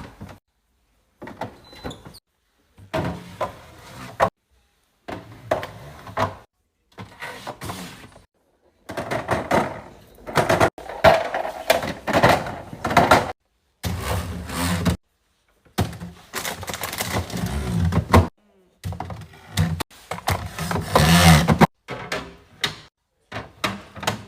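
Restocking sounds in a row of short clips: food containers and packages being handled, set down and knocked against shelves, with door thuds. Each clip stops dead, with a clean silence between them.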